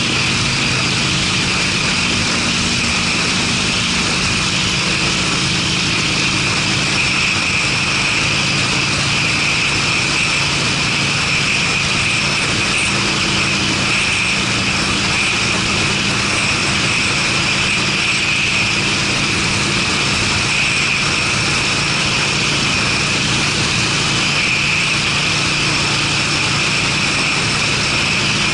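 Harley-Davidson Sportster V-twin with Screamin' Eagle mufflers running at a steady engine speed while riding, over a steady high hiss.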